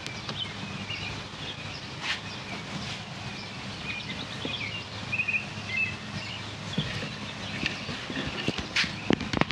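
Light clicks and knocks from a thick 2 AWG battery cable being looped and routed inside a plastic battery case, a few near the end, over a steady low hum.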